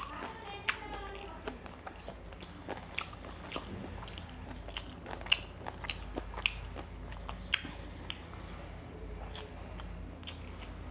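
Close-miked eating sounds: chewing, with irregular sharp wet clicks of lips and mouth, as rice and curry are eaten by hand.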